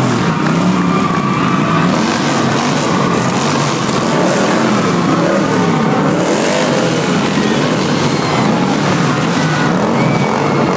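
Motorcycle engines revving, their pitch rising and falling again and again.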